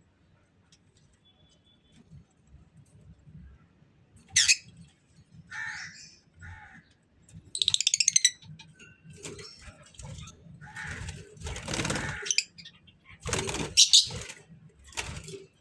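Birds in an aviary calling: several sharp calls and a fast rattling call about eight seconds in, with a stretch of wing flapping or rustling near the end.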